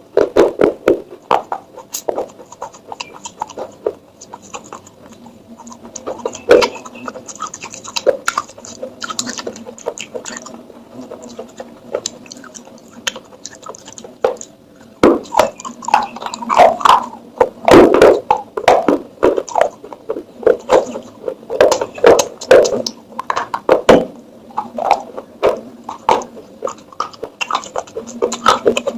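Clay pots being tapped and scraped by hand: a run of irregular knocks and scrapes, sparse at first and much busier from about halfway through.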